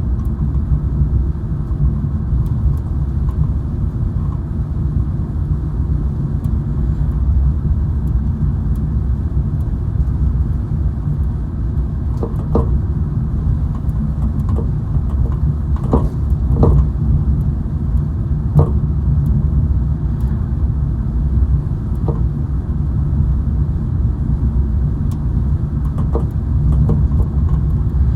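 Steady low road rumble of a moving car, heard inside the cabin, with a few short clicks or knocks scattered through the middle and near the end.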